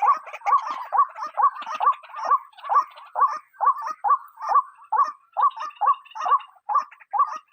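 White-breasted waterhen calling, a fast, even run of short hooked notes, about two a second.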